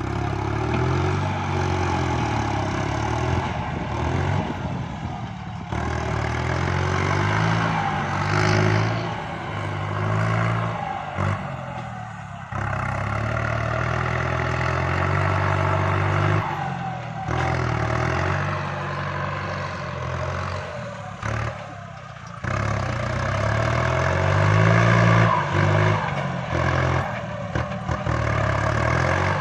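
Kubota MU5702 tractor's diesel engine working under load while pushing soil, its pitch rising and falling again and again as the load and throttle change, with several brief drops in level.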